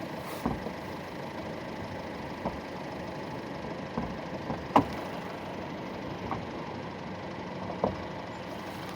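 Turbocharged 1.4-litre four-cylinder engine of a 2014 Dodge Dart, fitted with a short ram air intake, idling steadily. A few faint clicks are heard along the way.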